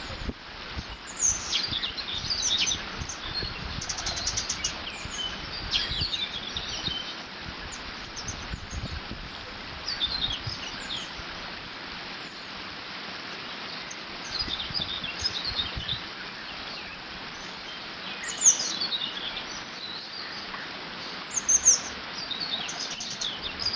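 Water running steadily through a beaver dam, with songbirds singing in short chirping phrases every few seconds. Low wind gusts rumble in the first half.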